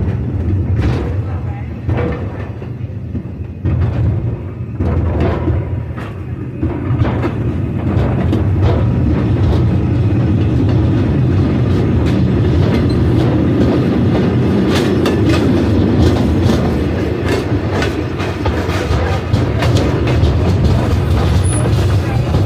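Heritage passenger train running along the track, heard from on board: a steady low rumble with scattered clanks and rail clicks. It grows louder about seven seconds in.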